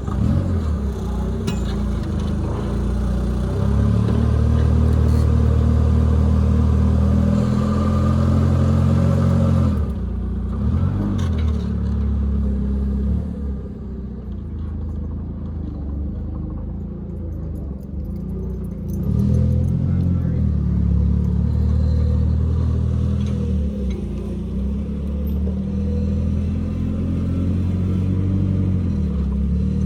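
An engine running, its speed and load rising and falling: louder from about four to ten seconds in, easing off, then louder again from about nineteen seconds in.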